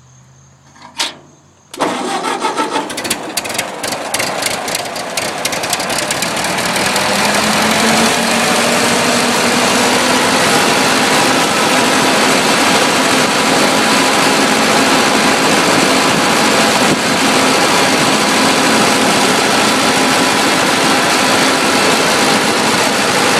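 Ford 8N tractor's four-cylinder flathead engine started on a little choke: it catches about two seconds in, fires unevenly for a few seconds while the speed climbs, then settles into steady running.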